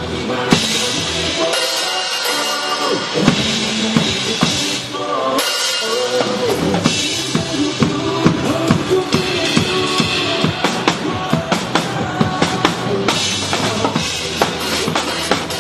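Drum kit played over a recorded song: steady bass drum and snare hits with cymbals, over a backing track with melody.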